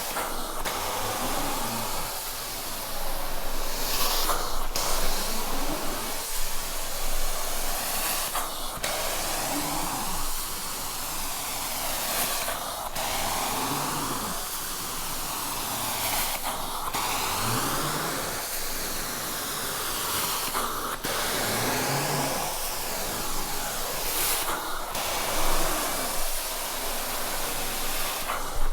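Truck-mounted carpet extraction wand rinsing carpet: a steady hissing suction sound that sweeps in pitch with each pass, broken briefly about every four seconds as each stroke ends.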